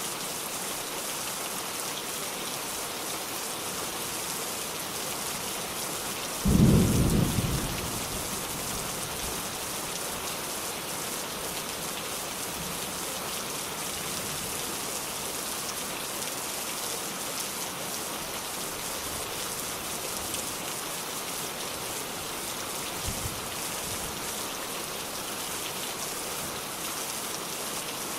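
Steady rain hissing, with a sudden clap of thunder about six seconds in that rumbles low for a second or two and fades; a faint low rumble comes again later.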